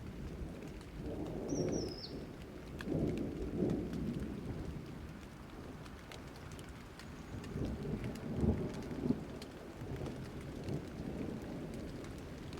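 Steady rain with low rolling thunder that swells and fades several times, loudest about eight to nine seconds in.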